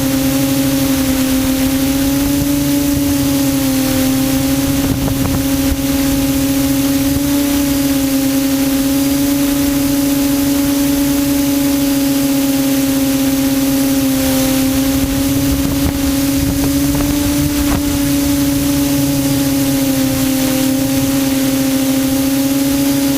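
Quadcopter's electric motors and propellers droning steadily in flight, heard from the onboard camera: one steady hum with higher overtones that waver slightly in pitch, over a constant rush of prop wash and wind.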